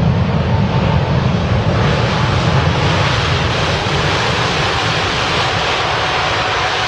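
The four jet engines of an Airbus A380 airliner running during its landing: a steady rush of noise over a deep rumble, with a faint whine that sinks slightly in pitch. The rushing noise grows brighter about two seconds in.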